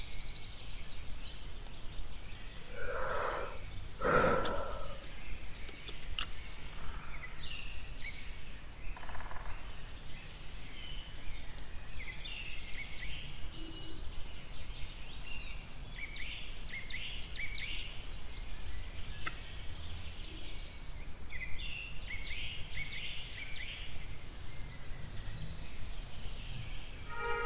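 Steady low background hum with scattered faint bird chirps. Two brief louder sounds come about three and four seconds in.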